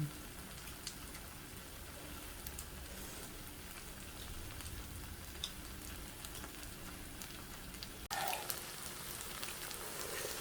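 Squid and pork-belly stir-fry sizzling on an iron griddle plate: a steady hiss with scattered crackles. About eight seconds in it cuts suddenly to a louder sizzle.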